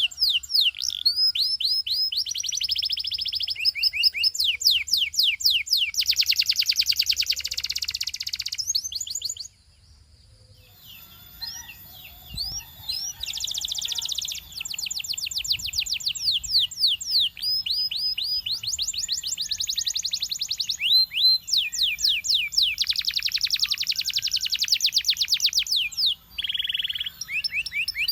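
Belgian singing canary singing in long, fast trills of rapid down-sweeping notes, with a short break about ten seconds in before the song resumes.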